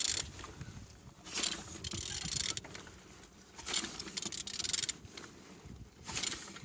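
Renault G9U diesel engine being turned over by hand, its crank rotated in three bursts of scraping, rasping mechanical noise about a second or so each.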